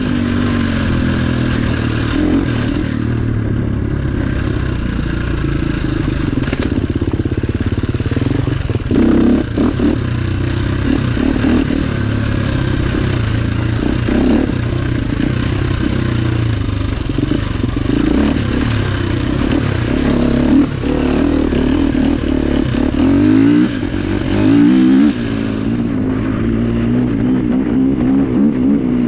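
Off-road enduro motorcycle engine running under load on a dirt trail, the throttle opening and closing, with occasional knocks from the bike over rough ground. The revs rise sharply about two-thirds of the way through.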